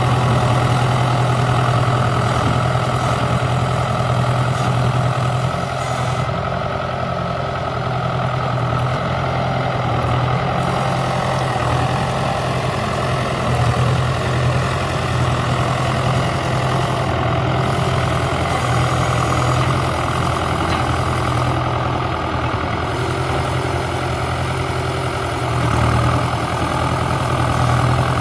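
1959 Ford 881 tractor's freshly rebuilt diesel engine running steadily, its level dipping a little for a few seconds early on and rising briefly about 26 seconds in as it works.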